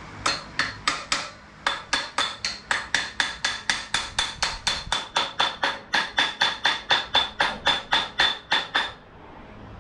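A small hammer tapping repeatedly on metal, each blow ringing with a high ping. After four quick taps and a short pause, it settles into a steady run of about three taps a second, which stops near the end.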